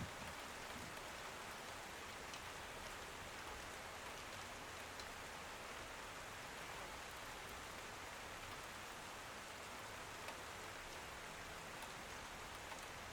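Steady rain falling, an even hiss with occasional single drops ticking a little louder.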